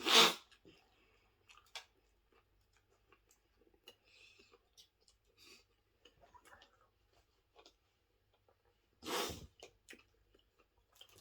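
A person chewing a mouthful of sandwich, with faint wet mouth clicks. A loud, short noisy burst comes right at the start and a weaker one about nine seconds in.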